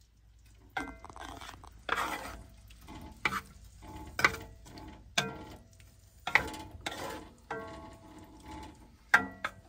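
A metal utensil scraping and clinking against a pan as shrimp are rolled around in a tomato-paste sauce, in short strokes about once a second, some leaving a brief metallic ring.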